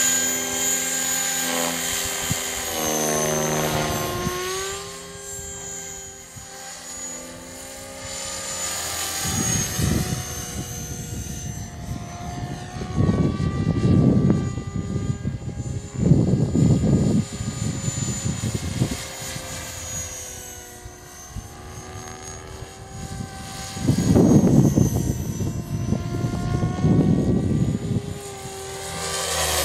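CopterX 500 RC helicopter in flight: a steady motor and rotor whine that rises and falls in pitch as it manoeuvres. Strong gusts of wind rumble loudly over the microphone several times through the middle and near the end.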